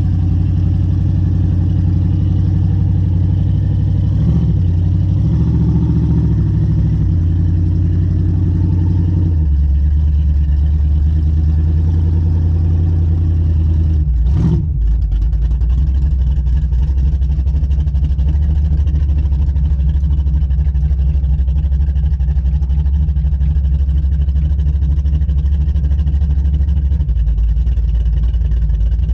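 A vehicle engine running steadily, its pitch shifting a few seconds in and again about a third of the way through. A single sharp knock comes about halfway.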